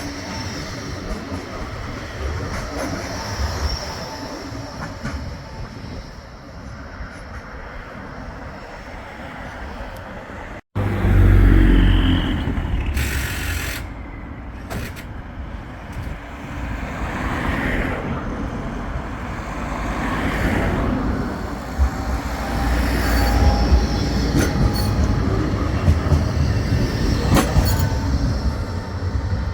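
Bombardier Flexity 2 light-rail tram running on the tramway: steady wheel-on-rail and running-gear noise. About a third of the way in it cuts abruptly to a louder, deeper rumble of the tram passing.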